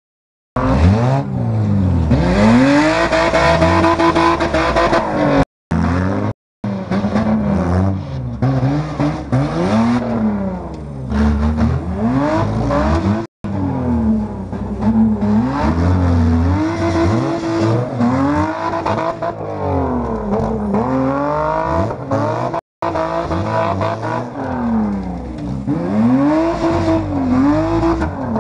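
Car engines revving up and down again and again, the pitch climbing and dropping every couple of seconds, with several engines overlapping at times. The sound cuts out to silence for a moment a few times.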